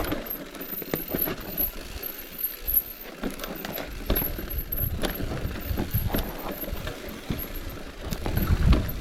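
Bicycle freewheel ticking as the rider coasts, over wind rumble on the microphone that grows stronger near the end.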